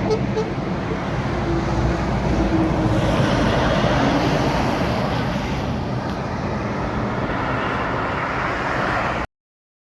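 Heavy truck traffic passing on a highway: a steady rushing road and engine noise that cuts off abruptly just past nine seconds in.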